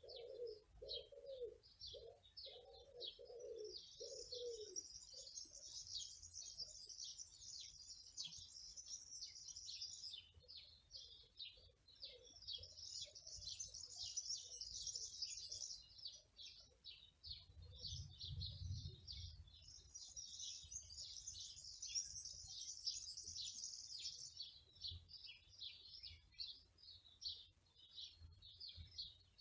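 Small birds chirping throughout, with three long stretches of dense, high, rapid song; a dove cooing low and rhythmically in the first few seconds.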